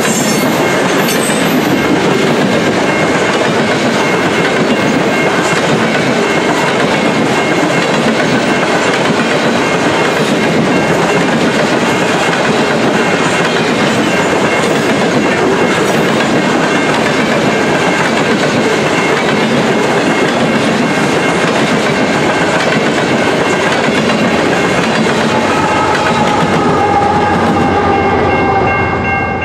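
Freight train of covered grain hopper cars rolling past, a steady loud rumble of steel wheels on the rails. Near the end the rolling noise falls away as the last of the train goes by, leaving a few steady high tones.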